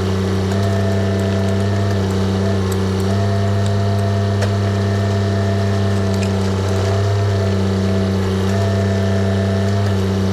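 Diesel engine of a TYM tractor backhoe running steadily under work, its note dipping and recovering slightly a few times as the load changes.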